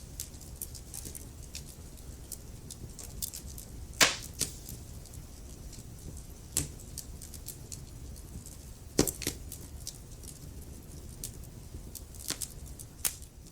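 Wood fire in a fireplace crackling, with irregular sharp pops and snaps over a low steady rumble of the flames. The loudest pops come about four seconds in and about nine seconds in.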